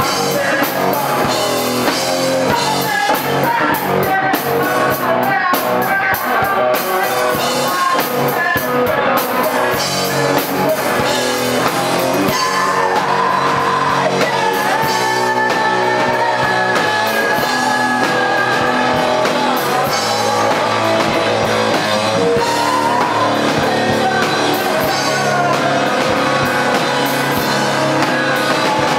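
Live rock band playing a song at a steady, loud level: guitars over a drum kit.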